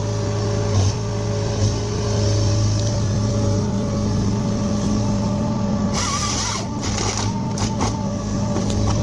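Engine of a heavy forestry machine running steadily, with a few short hissing bursts of noise about six to seven seconds in.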